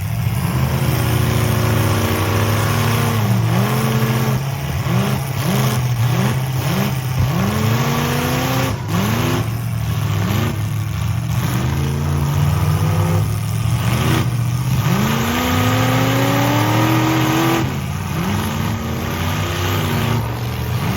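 A car engine revving again and again over a steady low engine drone: a run of quick blips, then several longer rev-ups that climb in pitch and drop back.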